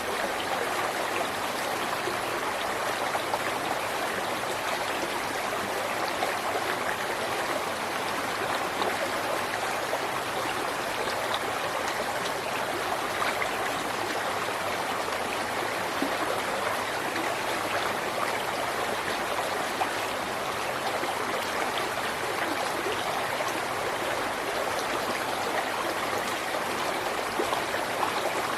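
A river running steadily over rocks, its water babbling and splashing with small, constant flickers.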